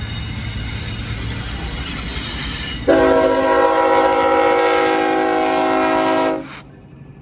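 Freight train rumbling along, then about three seconds in the leading diesel locomotive sounds one long blast of its multi-chime air horn, several steady tones held for about three and a half seconds. The sound drops off abruptly near the end.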